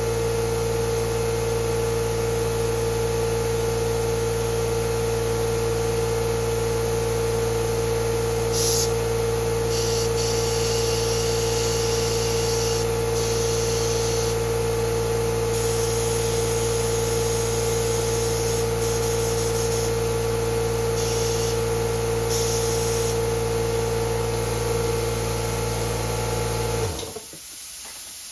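Small engine of a Yanmar walk-behind cultivator running steadily at a constant speed, with some short bursts of high hiss in the middle, then cut off suddenly near the end.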